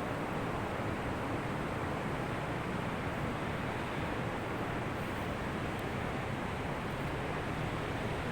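Ocean surf on a beach, heard as a steady, unbroken rush of water with no single wave standing out.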